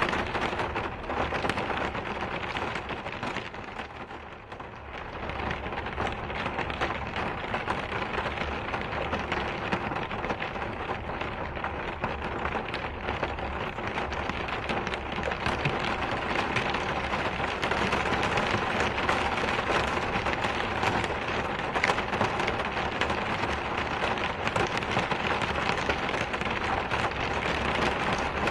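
Steady rain falling, a dense patter of drops. It eases briefly about four seconds in, then carries on.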